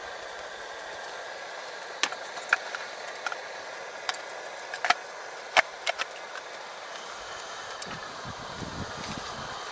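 Wood fire crackling: a steady hiss with a run of sharp, irregular pops between about two and six seconds in.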